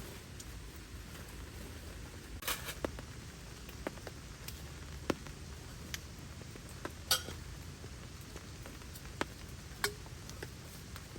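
Scattered raindrops tapping irregularly on a tent shelter over a steady rain hiss, the sharpest taps about two and a half and seven seconds in.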